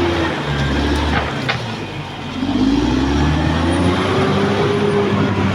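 Caterpillar D6R XL bulldozer's diesel engine running; its pitch sags and the sound eases about a second or two in, then climbs again as the engine takes load. A couple of short sharp clicks come about a second in.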